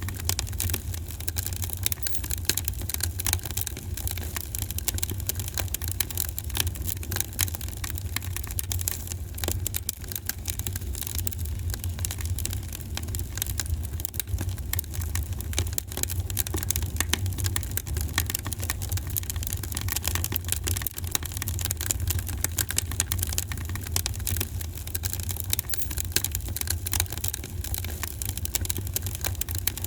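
Wood fire crackling, with dense small pops and snaps throughout over a steady low rumble.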